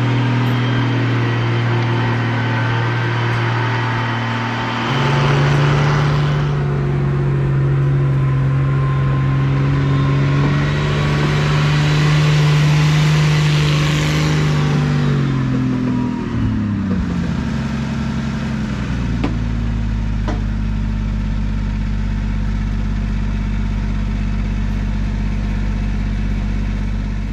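Engine running steadily, picking up speed about five seconds in, then slowing in a smooth downward glide around the middle and settling at a lower steady speed.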